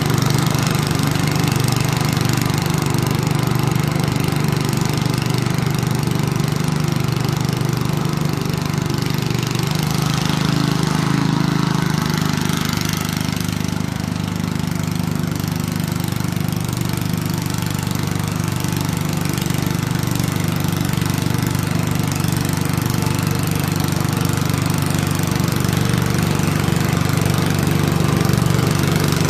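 The single-cylinder 7 hp Tecumseh engine of a 1971 Ariens snow thrower running steadily. Its note shifts and dips slightly about twelve seconds in.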